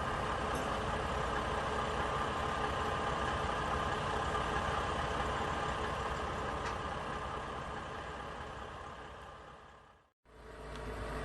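Vehicle engine idling steadily, fading out about ten seconds in; after a brief silence a different engine sound with a deeper rumble begins.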